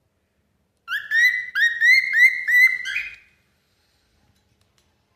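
Cockatiel singing: a quick run of about eight short whistled notes, each sliding up in pitch, lasting a little over two seconds and starting about a second in.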